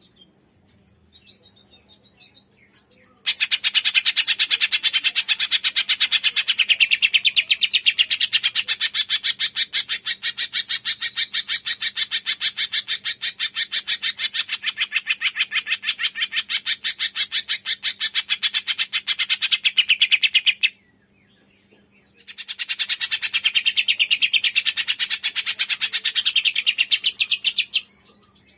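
Cucak ijo (leafbird) singing its 'tembakan' song: a long, rapid run of repeated sharp notes, breaking off briefly and starting again for a shorter run near the end.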